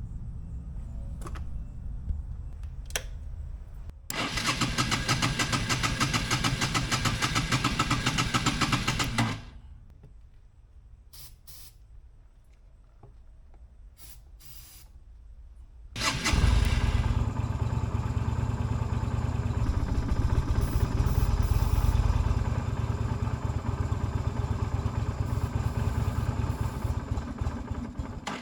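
A Yamaha V Star 250's air-cooled V-twin is cranked on the electric starter for about five seconds without catching. About halfway through it is cranked again, starts, and keeps running with a deep, uneven sound.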